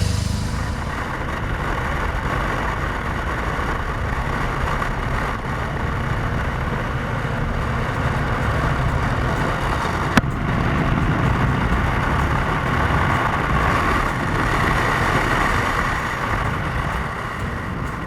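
Motorcycle running steadily on the road, its engine rumble mixed with road and wind noise, with one sharp click about ten seconds in.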